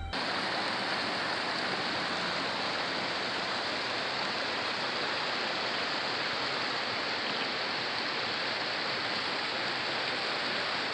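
Flowing water rushing steadily: the river and the hot-spring streams running down into it.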